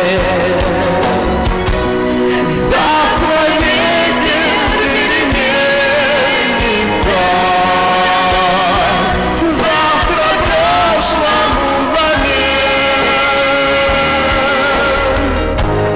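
A song: long, held sung notes with vibrato over a full instrumental backing.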